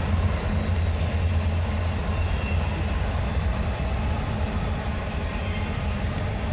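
A freight train of loaded autorack cars rolling past close by, a steady rolling rumble of wheels on rail with a low drone underneath.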